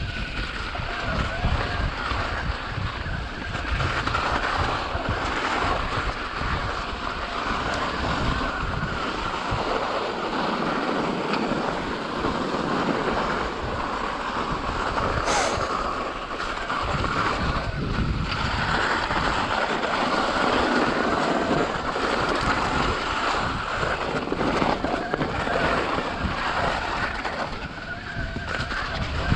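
Wind rushing over the microphone: a steady noisy rush with an uneven low rumble.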